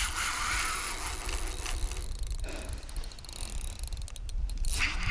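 A fishing reel whirring and clicking while a large channel catfish is fought on the line; the whirr fades after about two seconds into a few scattered clicks.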